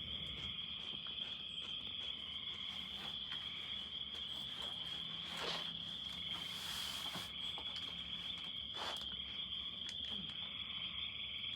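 Evening chorus of calling animals: a steady, unbroken high-pitched trill, with a few faint clicks over it.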